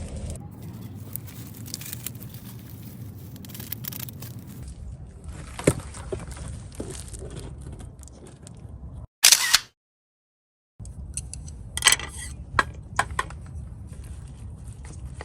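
Scattered small clicks and scrapes of objects being handled over a low steady background, with a loud short burst about nine seconds in followed by a second of dead silence.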